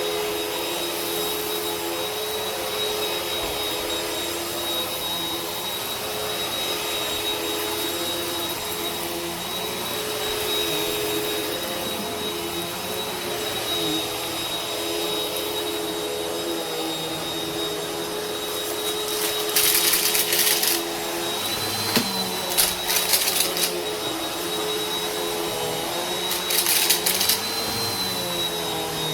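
Vacuum cleaner running steadily with a high motor whine. In the second half come several short bursts of crackling: the crunch of debris being sucked up.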